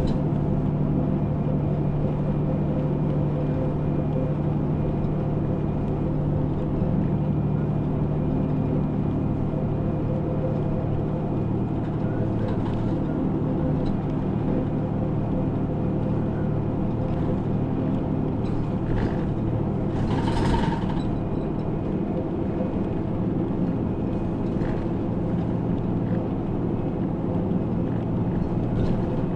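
Route bus engine and running noise heard from inside the passenger cabin: a steady low hum, with a brief louder burst of noise about twenty seconds in.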